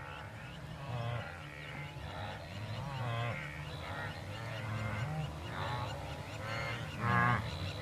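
A large herd of wildebeest calling, many overlapping grunting calls at once, one louder call about seven seconds in.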